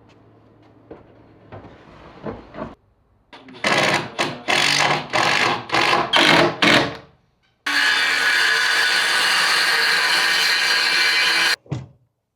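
A power tool working wood: a string of short bursts, then one steady run of about four seconds that stops abruptly.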